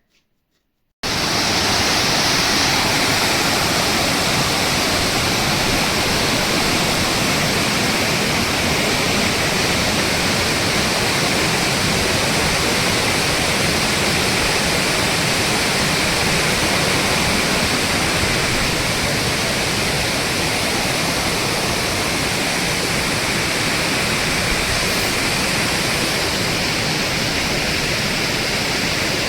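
Waterfall pouring heavily over rock: a loud, steady rush of water that starts suddenly about a second in after a brief silence.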